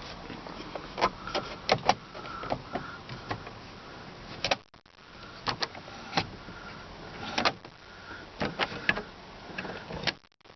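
Irregular sharp clicks and knocks, handling sounds inside a parked vehicle's cabin, with two brief cut-outs to silence, about halfway through and near the end.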